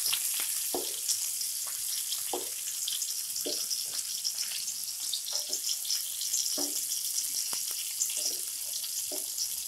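Stuffed bitter gourds shallow-frying in oil in a frying pan: a steady crackling sizzle. A wooden spatula turning them gives a few soft knocks and scrapes against the pan.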